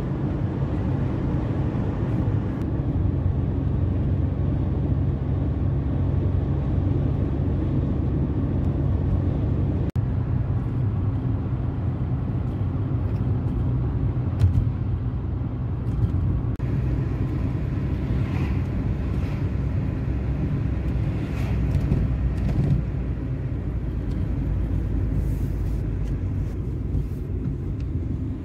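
Steady low road rumble of a car being driven on a highway, heard from inside the cabin: engine and tyre noise.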